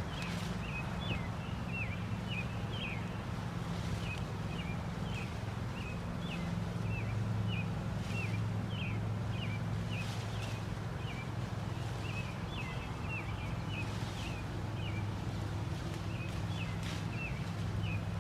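Small birds chirping over and over in short, irregular calls, over a steady low hum, with a few brief rustles.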